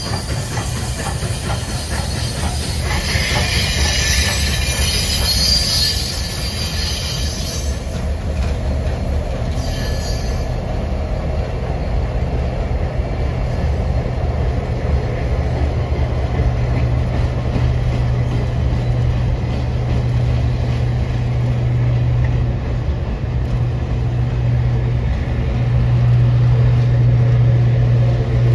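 A passing train led by CPKC 2816, a Hudson-type steam locomotive, rolling by over the rails. About three seconds in, a high wheel squeal and hiss lasts about five seconds, over a steady low hum that grows louder near the end as the diesel and passenger cars go past.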